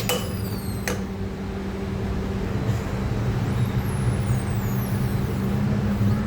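Motorcycle front wheel turning, giving thin, high-pitched squeals that fall in pitch now and then, over a steady low hum. A sharp click comes near the start and another about a second in. The squealing is the sign of a dry, ungreased part at the front wheel.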